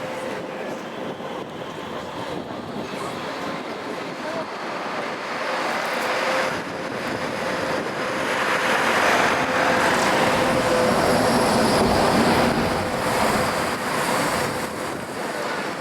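1966 Scania Vabis BF56 bus under way, heard from on board: engine and road noise with a faint steady whine, getting louder about halfway through and easing off near the end.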